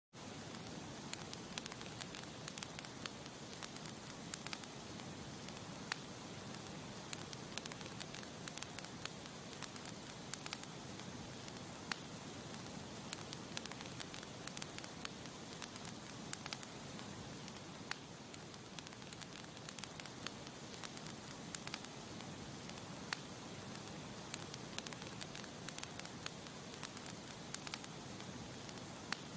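Campfire crackling: frequent sharp, irregular pops and snaps of burning wood over a steady low hiss of the flames.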